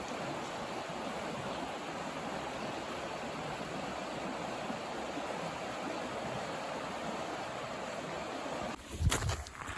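Steady rush of running water. It cuts off suddenly near the end, followed by a few sharp thumps.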